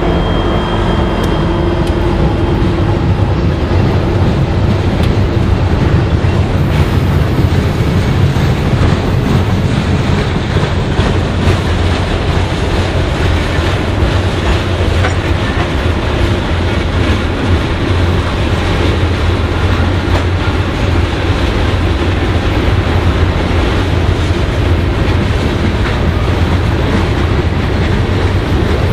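Long Union Pacific freight train rolling slowly past on a downgrade. The locomotives' engines hum for the first few seconds and fade as they move off, leaving the steady rumble and rail clatter of the freight cars' wheels going by.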